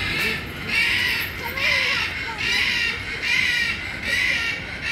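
A bird calling over and over in a steady rhythm, a little more than one call a second, with faint voices underneath.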